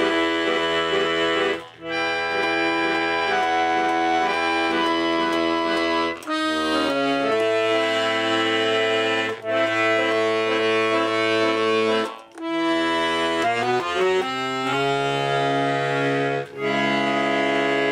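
Accordion played in sustained chords over a bass line, with short breaks a few times between phrases. The playing is improvised, random notes held together.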